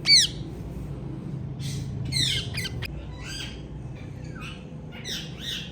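Ringneck parrots squawking: one loud, sharp call right at the start, then a quick run of harsh calls about two seconds in, and more short calls near the end.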